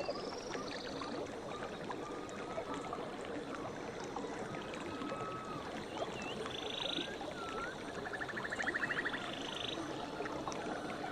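Running water of a river or stream, with birds calling over it: short rising chirps and several fast buzzy trills, the loudest near the end.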